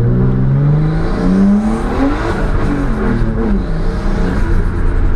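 Turbocharged 1JZ-GTE straight-six in a Nissan Skyline R33 accelerating hard, its revs climbing for about the first second and a half, then falling away as the throttle is eased.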